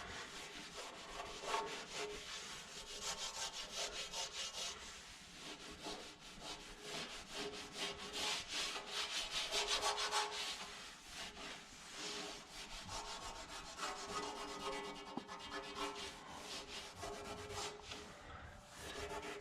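Hand scrubbing and wiping of a truck's aluminum panels with degreaser, in an irregular run of rubbing strokes, to lift off grease and contaminants before polishing.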